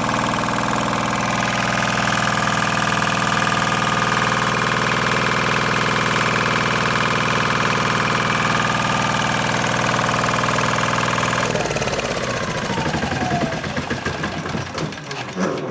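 Small diesel engine running steadily while driving an Ecycle brushless motor as a generator to charge batteries. About eleven seconds in the engine shuts off and the machine winds down with a falling whine and a few knocks.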